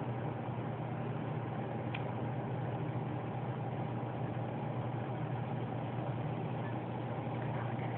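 A steady low mechanical hum, like a motor or engine running without a break, with one faint click about two seconds in.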